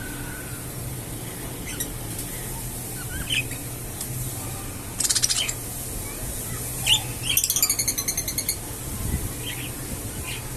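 Budgerigars chirping: scattered short chirps, a quick rattling trill about five seconds in, and a rapid warbling call a couple of seconds later, over a low steady hum.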